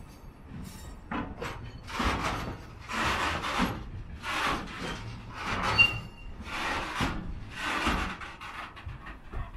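Covered freight wagons rolling slowly past as the train brakes to a stop. The wheels and brake blocks scrape in rasping surges about once a second, with a short high squeal about six seconds in.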